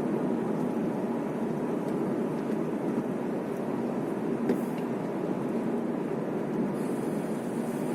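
Steady road and engine noise inside a moving car's cabin while driving, with no distinct events.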